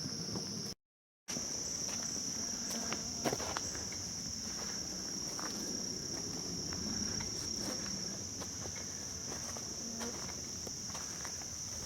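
A steady, high-pitched chorus of insects in the woods, with scattered light footsteps on the trail. The audio cuts out completely for about half a second near the start.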